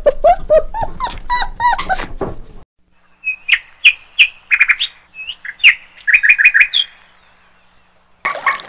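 A small dog's high squeaky whining, short yips about four a second, stopping about two and a half seconds in. Then flamingos call in clusters of short, high nasal honks, some rising, until near the end.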